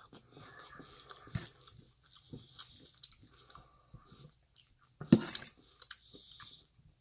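A person chewing a mouthful of chicken, rice and spinach close to the microphone, with scattered soft clicks. About five seconds in there is a louder scrape as a fork scoops food from a metal plate.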